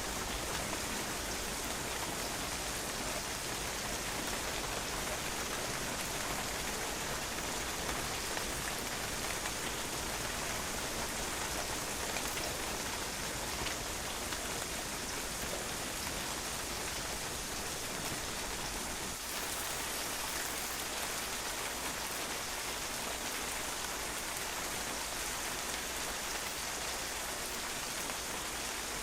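Steady rain falling on a patio, an even hiss of drops striking the hard surface.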